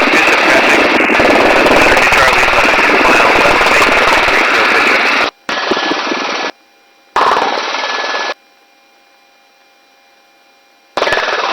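Helicopter rotor and engine noise picked up through an open crew intercom microphone, a loud rapid chopping that cuts off abruptly about five seconds in. The same noise then comes back in three short bursts of about a second each as the microphone opens and closes again.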